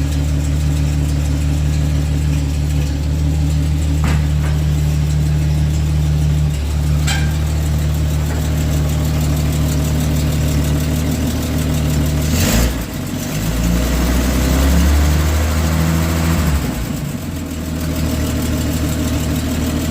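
1953 Dodge pickup's flathead six idling steadily. A little past halfway its speed rises briefly for a few seconds, then settles back to idle.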